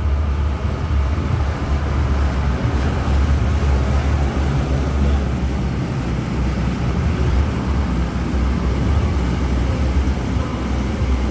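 Boat engine running steadily under way: a loud, even low rumble with a steady hiss above it.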